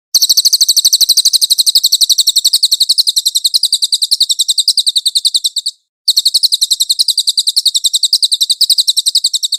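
Cililin bird singing two long, rapid, high-pitched trills of sharp, evenly repeated notes, about ten a second, with a short break about six seconds in.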